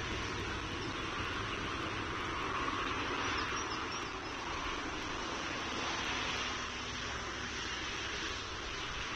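Steady outdoor background rumble and hiss from a nest-camera microphone, swelling slightly a few seconds in, with a few faint high chirps about three seconds in.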